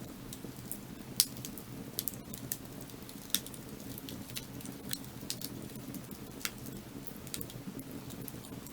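Wood fire crackling: irregular sharp pops and snaps over a steady low rumble, with two louder pops, one about a second in and one past three seconds.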